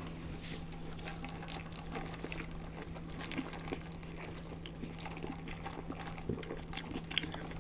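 Close-miked chewing and wet mouth sounds of people eating a chicken burger: scattered small smacks and clicks over a steady low hum.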